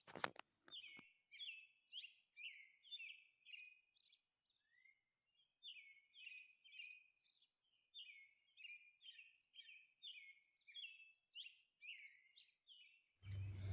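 Faint birdsong: a steady run of short, high chirps, about two a second.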